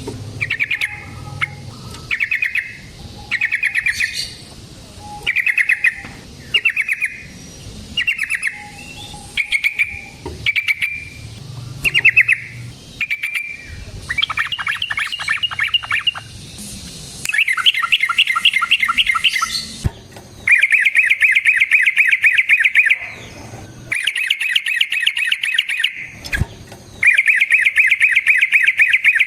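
Yellow-vented bulbul singing. First come short chattering phrases about once a second, then from about halfway, long rapid rolling trills two to three seconds at a time. It is the loud challenging song a bulbul uses to call out a rival.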